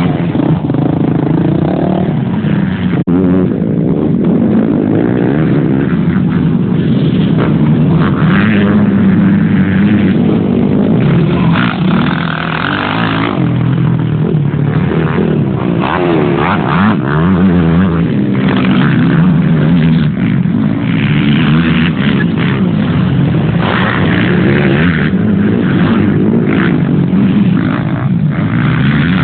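Motocross dirt bike engines running and revving, their pitch rising and falling with the throttle.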